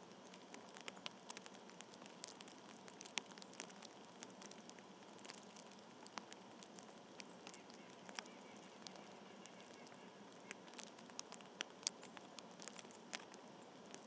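Scattered light ticks and taps, irregular and sometimes several a second, over a faint steady hiss.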